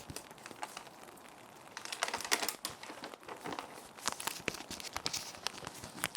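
Plastic sheet protectors crinkling and rustling as they are handled, in irregular crisp bursts starting about two seconds in, over a soft steady rain ambience.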